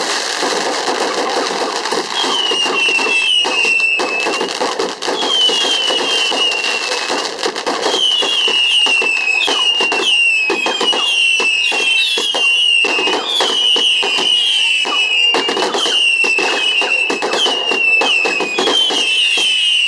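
Fireworks going off in rapid succession: a dense crackle of bangs, joined from about two seconds in by a run of short whistles, each falling slightly in pitch, about one a second.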